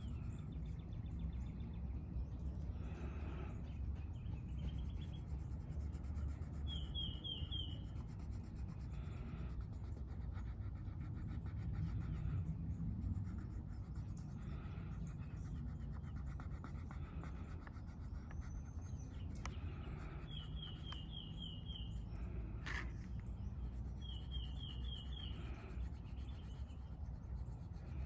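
Steady low outdoor rumble with a bird repeating a short, quick run of high chirps every few seconds, and one rising whistle about two-thirds of the way through. Soft scratching of colouring on paper sits underneath.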